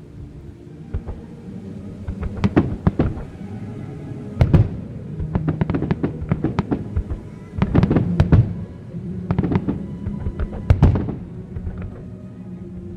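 Fireworks bursting: many sharp bangs in quick clusters, the loudest about four and a half seconds in and again near eleven seconds, over music with sustained notes.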